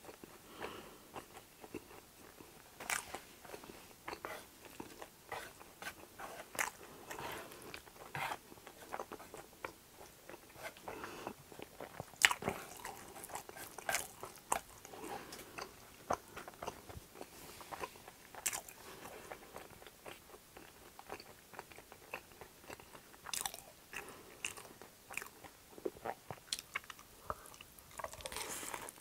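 Close-miked eating: chewing a mouthful of food with wet smacks and crunches, sharp mouth clicks scattered throughout. Near the end, a mouthful of chewy spicy jjolmyeon noodles is slurped in.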